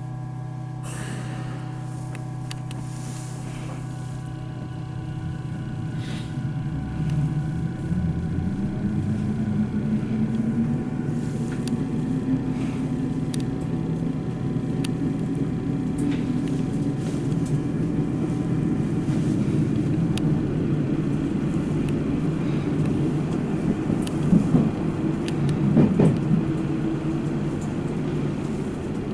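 Electric commuter train pulling away from a station, heard from on board: the traction motors' whine rises steadily in pitch as the train gathers speed over a low running rumble, with a few clacks from the wheels.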